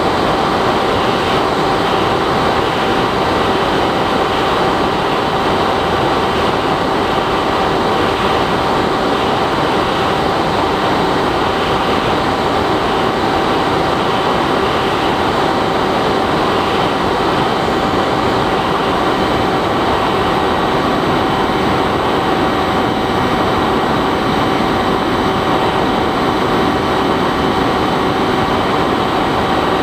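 Bixler 3 model plane's electric motor and propeller running at a steady cruise, a constant whine over loud wind rush as heard by the onboard camera.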